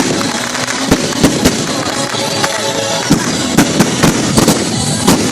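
Daytime fireworks going off: a rapid, irregular run of sharp bangs over a continuous hiss.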